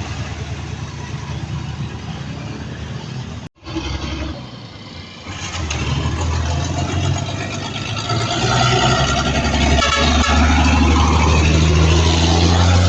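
Hauler truck engine running, with a brief dropout about three and a half seconds in, then growing louder from about six seconds on.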